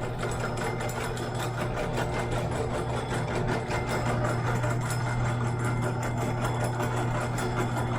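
Electric drill running steadily, boring holes in a workpiece.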